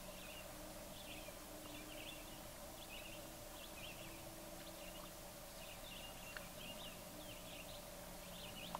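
Faint birds chirping repeatedly in short calls, with a steady low hum underneath.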